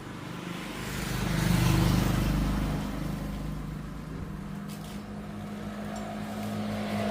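A motor vehicle's engine running steadily under a wash of road or wind noise, swelling in loudness about a second and a half in and then settling.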